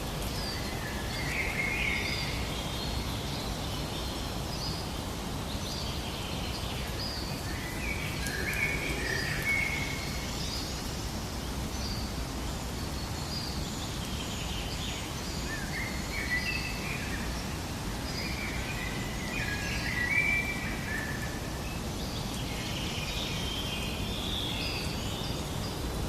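Birds chirping in short clusters of calls every few seconds, over a steady rushing background noise.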